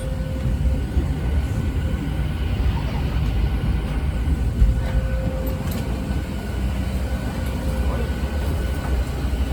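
Steady low rumble with a faint steady whine, the background noise of a parked Boeing 737 during boarding, with faint voices.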